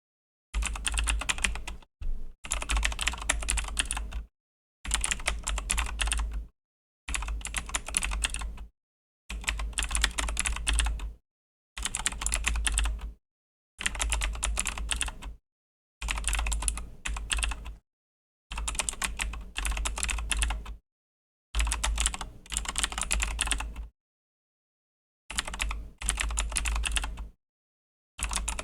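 Typing on a Razer BlackWidow V3 mechanical keyboard with clicky Razer Green switches: quick runs of keystrokes lasting a second or two, broken by short pauses of silence, with a longer pause a few seconds before the end.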